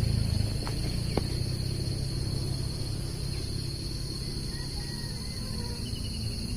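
Steady, unbroken chorus of insects, crickets or similar, as a high drone, with two sharp clicks about a second in and a low rumbling haze underneath; a few faint short chirps come in near the end.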